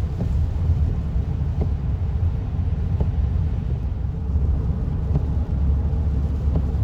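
Car driving along a road, heard from inside the cabin: a steady low rumble of tyres and engine, with a few faint ticks.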